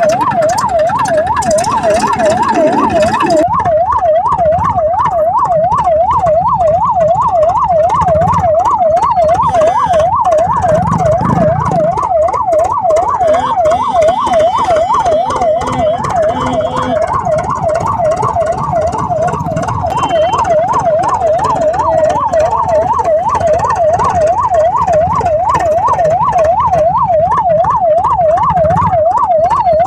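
Electronic siren sounding a fast, even yelp, its pitch sweeping up and down about twice a second, with a low rumble underneath.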